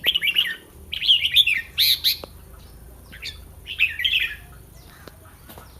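Red-whiskered bulbul song: short, quick warbled phrases, in rapid bursts for the first two seconds and again about four seconds in.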